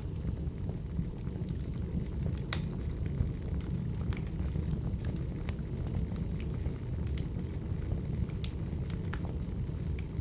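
Firewood burning: a steady low rush of the fire with irregular sharp crackles and pops from the logs.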